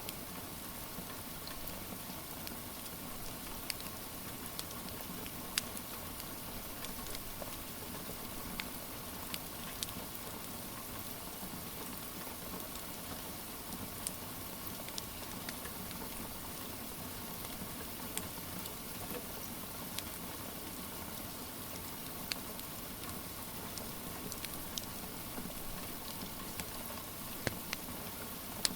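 Steady rain with a crackling wood fire: an even hiss with scattered sharp pops and snaps.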